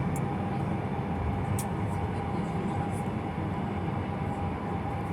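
Steady low rumble of an airliner cabin on the ground, the noise of the engines and cabin air, with a faint constant hum.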